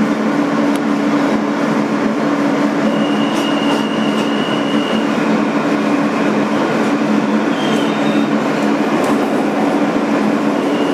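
Inside a moving R-160B New York City subway car: the steady rumble of the train running on the track, with a constant low hum. A thin high whine rises over it for about two seconds a few seconds in, and again briefly near the end.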